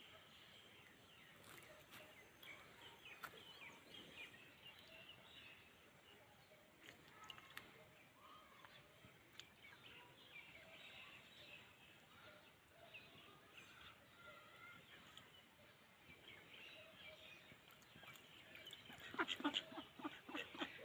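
Faint farmyard ambience with scattered small bird chirps. Near the end, a rapid run of loud duck quacks.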